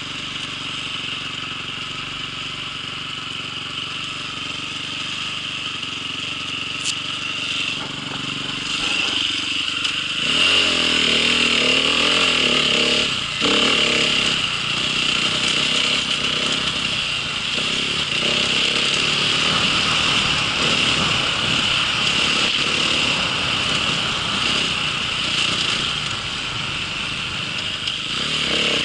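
A motor vehicle engine idling steadily, then revving up about ten seconds in and running faster and louder.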